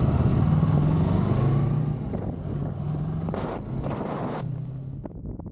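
Motorcycle engine running under way, its pitch shifting in small steps, with some wind on the microphone; the sound drops in level about two seconds in and thins out near the end.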